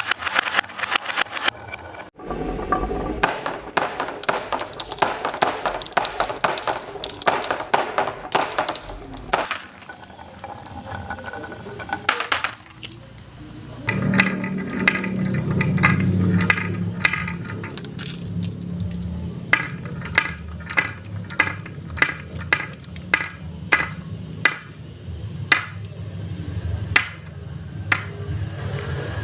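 Marbles rolling down a marble run, clicking and rattling against the track and each other in quick irregular clicks, with a steady low hum in the second half.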